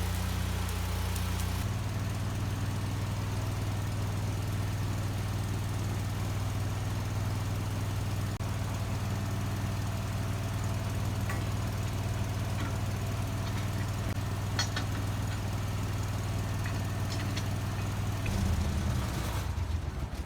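Engine running steadily with a low hum, its note shifting at about two seconds in and again near the end, with a few faint clicks in between.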